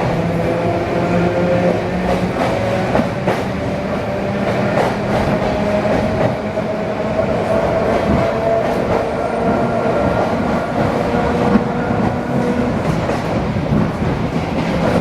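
ED4M electric multiple unit running along the track, with a steady motor and gear whine that rises slowly in pitch and wheels clicking over rail joints.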